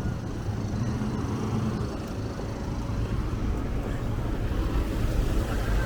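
Street traffic rumble mixed with wind on the microphone while riding a bicycle among cars, growing louder toward the end.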